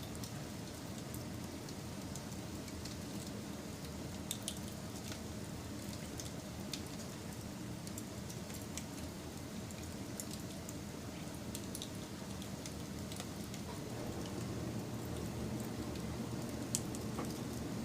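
Wood fire burning: a steady low rustle with scattered sharp crackles and pops, and one louder pop near the end.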